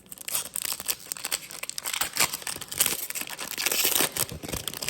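Plastic wrapper of a trading card pack being torn open and crinkled by hand, a busy crackling rustle throughout.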